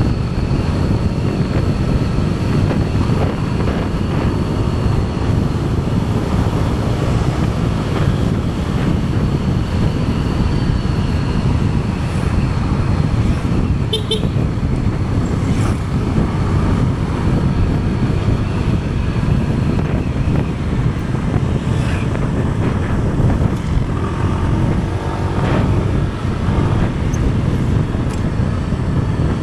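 Steady rumble of wind and road noise from a moving vehicle, heard from its on-board camera, with a thin high whine through the first half and a few brief clicks about halfway.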